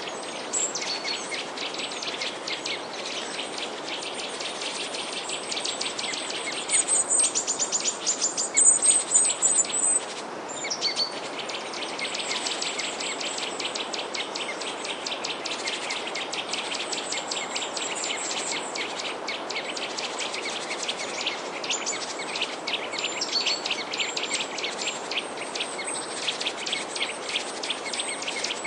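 A dense chorus of small songbirds chirping, many quick high chirps overlapping without a break, with a louder run of chirps about seven to nine seconds in.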